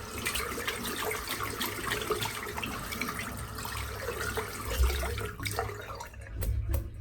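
Water running from a tap while a shaving brush is rinsed out under it; the flow stops about six seconds in.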